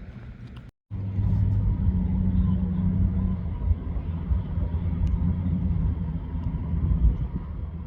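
A motor vehicle running: a steady low engine hum with rumble. It starts after a brief cut about a second in.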